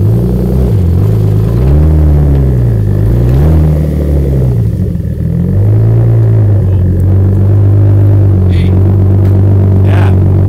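Turbocharged BMW E36's exhaust at idle. The engine note wavers up and down in pitch several times over the first few seconds, then settles to a steady idle, with two short hisses near the end.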